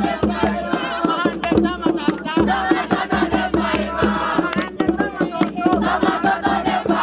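Group of voices singing and chanting together over dense, rapid percussion strikes, with crowd noise mixed in.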